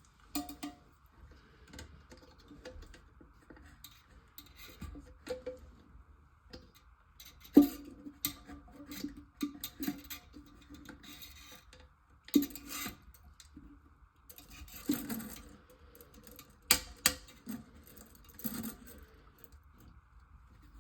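Irregular clicks, knocks and clunks of hard parts and tools being handled, with the loudest knocks about seven and a half, twelve and seventeen seconds in, some ringing briefly. A faint steady hum runs underneath.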